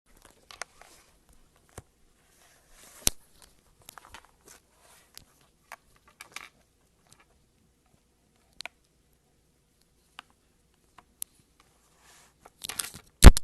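Slime being worked by hand, making scattered small crackles and clicks with brief crinkly squishes, and one loud sharp pop near the end.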